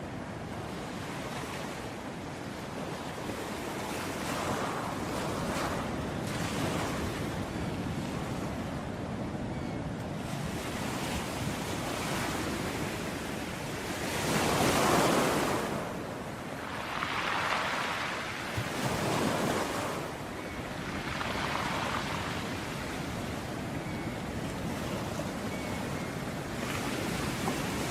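Sea waves breaking and washing onto a beach as a steady surf, one wave swelling loudest about halfway through and two smaller ones following soon after.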